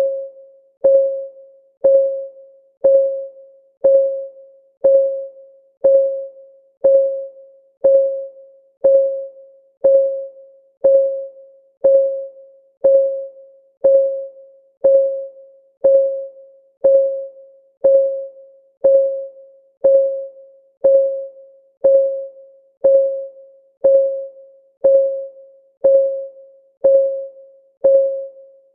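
Countdown timer's clock ticking, one tick a second at a perfectly even pace. Each tick is a click with a short pitched ring that fades quickly.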